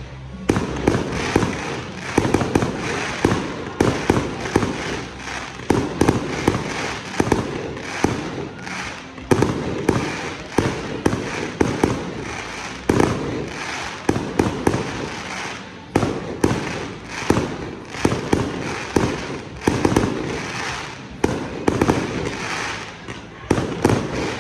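Fireworks going off in quick succession, bang after bang with crackling in between, one to several a second.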